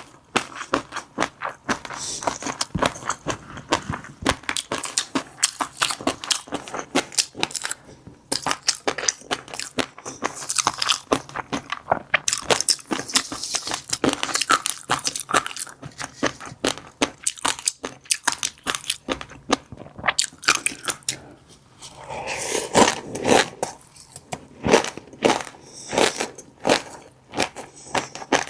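Close-up eating sounds of a person chewing mouthfuls of fish roe: rapid, crunchy clicks and pops as the eggs burst between the teeth. The clicks run nearly unbroken, with a couple of short pauses.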